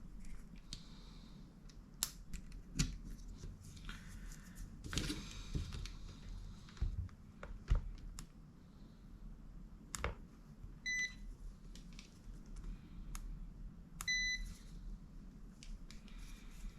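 Scattered clicks, taps and knocks of handling on an electronics bench, with two short high electronic beeps about three seconds apart in the second half, over a steady low hum.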